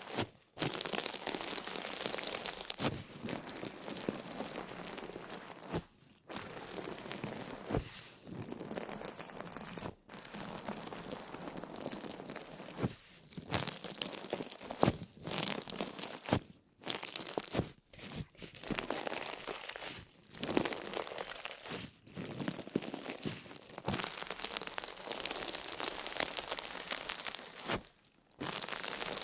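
Crisp crinkling and crunching, coming in bouts of a few seconds with short pauses between them and scattered sharp clicks.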